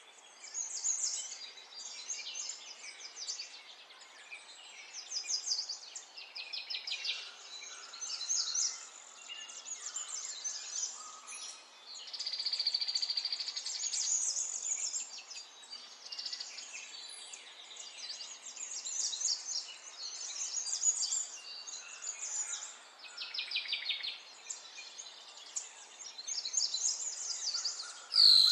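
Several birds singing, with overlapping high chirps, trills and twitters over a faint steady hiss. A single sharp, louder sweeping call or sound comes right at the very end.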